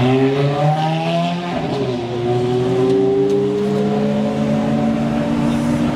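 Ferrari sports car engine accelerating hard, its note rising, then dropping in pitch about a second and a half in as it shifts up, and climbing slowly again through the next gear.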